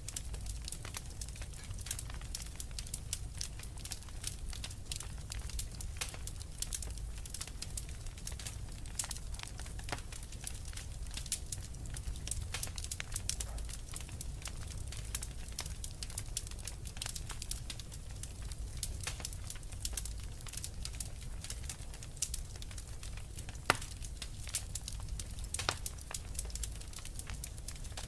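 Fireplace fire crackling: a dense, irregular run of small pops and snaps over a low steady rumble, with one sharper, louder crack near the end.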